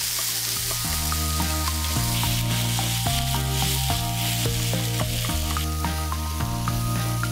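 Sliced pork and onion sizzling steadily in a hot frying pan as they are stirred with chopsticks. Background music with held chords plays over it.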